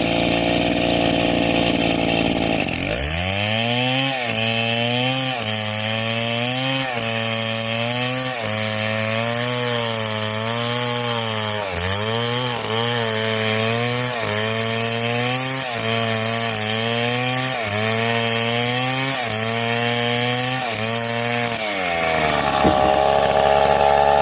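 Two-stroke chainsaw running at high revs, dropping to a lower, evenly pulsing idle about three seconds in, then revving up high again near the end.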